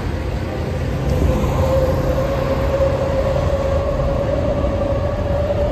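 Electric commuter train running across an elevated steel-girder railway viaduct overhead: a steady rumble with a whine that rises slightly in pitch.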